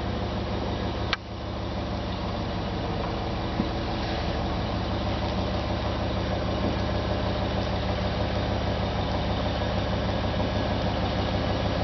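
Engine idling steadily with an even throb, with a short click about a second in.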